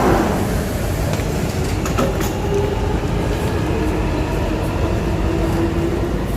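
A train running: a steady rumble with a steady hum over it.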